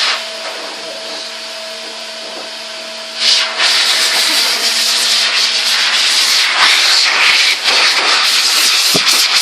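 Vintage Goblin Triumph cylinder vacuum cleaner running in blowing mode, air rushing out through the hose and crevice tool over a steady motor hum. About three seconds in the rush of air jumps louder and turns ragged and fluttering.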